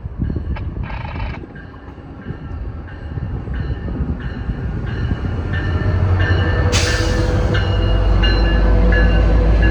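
Train coming in with a bell striking steadily about twice a second, while the deep rumble of a diesel locomotive builds and grows louder. About two-thirds of the way through there is a short burst of hiss.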